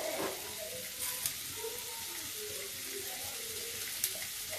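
Tomato and spice masala frying in a steel kadhai, a steady sizzle. A light clink comes about a second in and another near the end.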